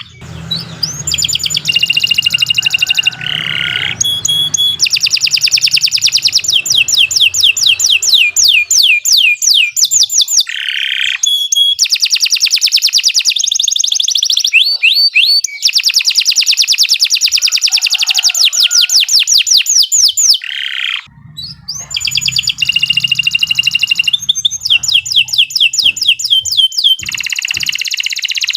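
Domestic canary singing a long, unbroken song of fast trills and rolls. Each phrase is a rapid run of repeated notes, and the phrase changes every few seconds. There is only a brief break about 21 seconds in.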